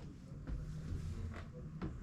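Quiet room with a faint steady low hum and two light knocks about a second and a half in.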